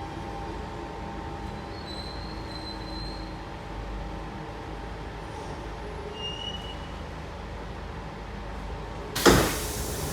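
Inside a Siemens C651 metro train: a steady low rumble with a few faint, brief high-pitched squeals. About nine seconds in comes a sudden loud rush of noise that dies away, the passenger doors opening.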